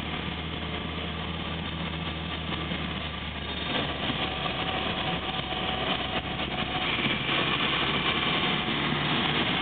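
1934 Morris 10 convertible's four-cylinder engine running under way, heard from inside the open car with road and wind noise. The engine note changes about four seconds in and grows a little louder near the end.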